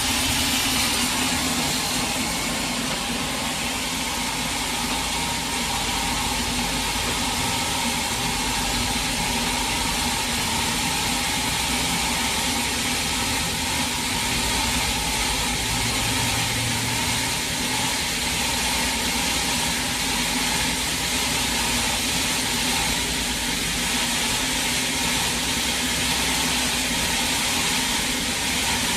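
Sawmill machinery running steadily: a constant engine-like drone with a hiss over it, and no sign of a blade entering a log.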